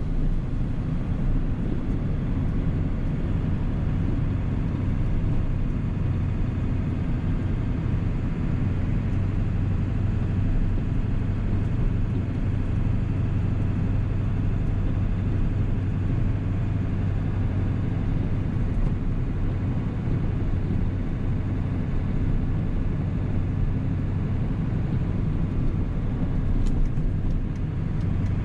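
1997 7.3 Powerstroke turbo-diesel V8 running steadily under way, a constant low drone with no change in pace.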